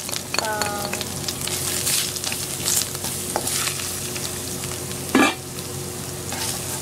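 Minced garlic sizzling in hot oil in a nonstick wok, stirred and scraped around with a spatula, with one louder scrape about five seconds in.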